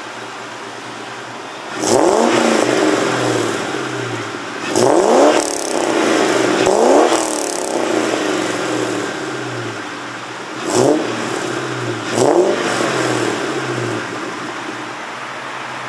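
2003 Mustang GT's 4.6-litre V8 through a Pypes catted X-pipe and Magnaflow mufflers, idling and revved in five quick throttle blips, each rising sharply and dropping back to idle.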